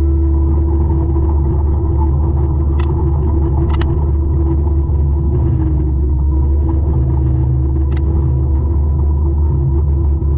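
A 200-horsepower forestry mulcher running steadily, a loud, even rumble with a constant engine drone. Three sharp clicks cut in briefly, about a third of the way in, just after that, and three quarters of the way through.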